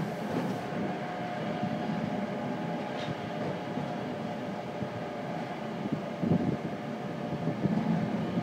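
Steady running noise heard from inside a moving train: an even rumble and hiss of wheels on rail with a faint steady hum, and a brief louder rumble about six seconds in.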